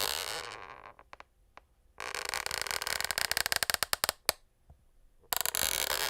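Wooden parquet floorboards creaking in drawn-out creaks made of rapid ticks: one fading away at the start, a longer one about two seconds in, and another beginning near the end.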